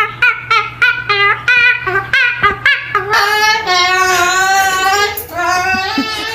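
Cockatoo singing: a quick run of repeated la-like syllables, then a long, wavering held note about halfway through.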